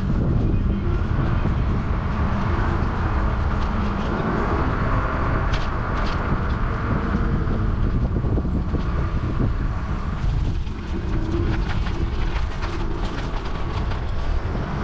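Wind rushing over the microphone of a camera riding along on a moving bicycle, a steady low rumble, with a few faint clicks about halfway through and near the end.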